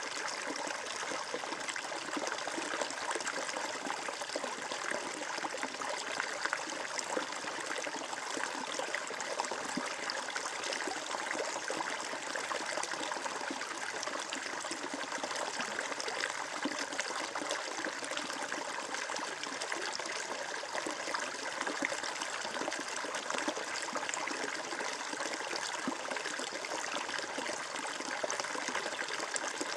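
Flowing water, like a stream, rushing and trickling steadily, with a dense patter of tiny splashes and no change over the whole stretch.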